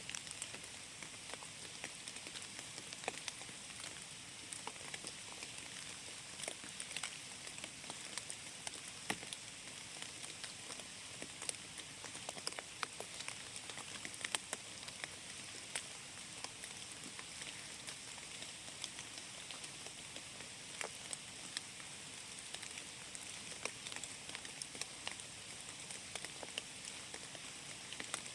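Steady rain falling in a forest: an even hiss with many separate drop ticks scattered through it.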